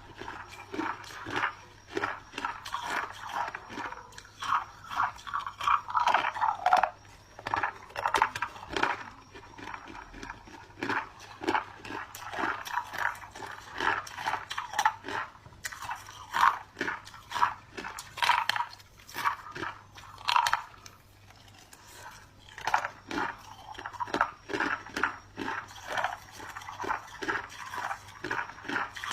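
A person biting and chewing chunks of clear ice: a dense run of sharp, irregular crunches, with a short lull about three quarters of the way in.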